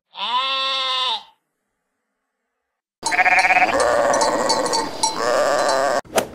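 Sheep bleating: one bleat of about a second, a pause of near silence, then about three seconds of further bleating, cut off by a short sharp click near the end.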